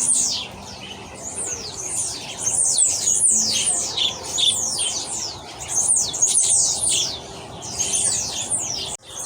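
Several birds chirping, a busy run of quick, high calls that each slide downward, coming in bursts with short lulls between.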